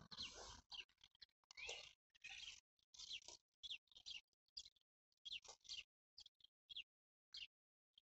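Faint birdsong: short chirps and quick gliding whistled notes, one after another with brief gaps. A short low-pitched noise at the very start.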